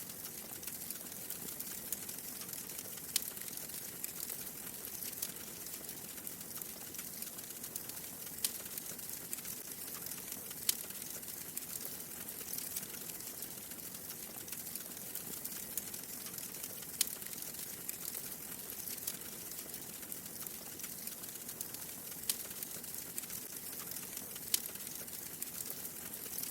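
Wood fire crackling in a fireplace: a steady soft hiss with scattered sharp pops every few seconds.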